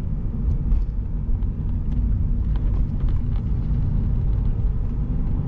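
Stage 2 tuned VW Polo diesel with a full exhaust running, a steady low engine and exhaust rumble.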